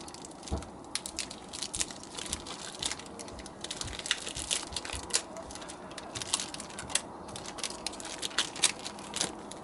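Wood fire crackling, with many irregular sharp pops and snaps over a low steady hiss.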